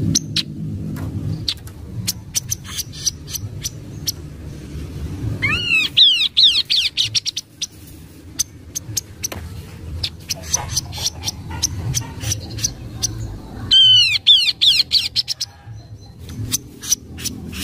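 Chestnut-capped babbler (kaso-kaso) calling: a steady scatter of sharp ticking notes, with two quick runs of arched whistled notes, one about six seconds in and one about fourteen seconds in.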